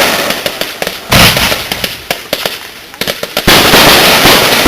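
Homemade fireworks bursting overhead: two loud booms, about a second in and again about three and a half seconds in, each trailing off into crackling as it fades.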